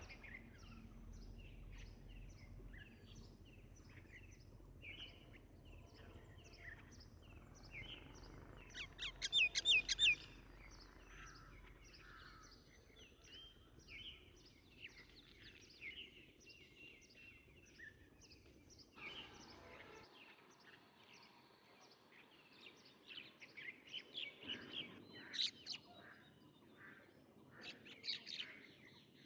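Several songbirds chirping and calling over one another in a steady outdoor chorus. About nine seconds in, a loud, quick run of about six notes stands out, and there are louder bursts of calls near the end.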